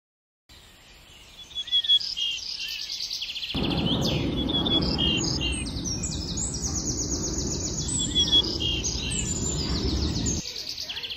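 Several birds singing, with many quick trills and chirps overlapping. About three seconds in a steady low rushing noise joins underneath and stops abruptly shortly before the end.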